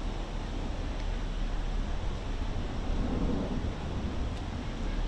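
Steady outdoor background noise with a low rumble, swelling slightly about three seconds in.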